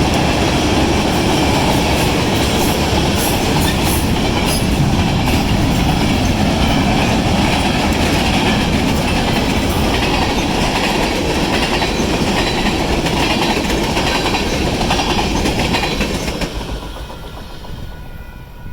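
Freight train cars rolling past a grade crossing with steady wheel clatter and rumble. Near the end the rumble fades sharply as the end of the train passes, leaving the crossing's electronic signal bells ringing.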